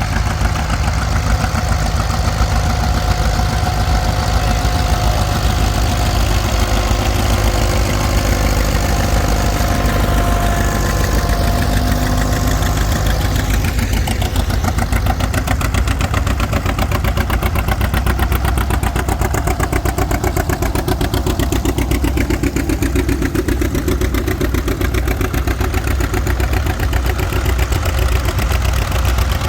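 Engines running: a steady low engine rumble, with fainter engine tones gliding up and down in pitch over it.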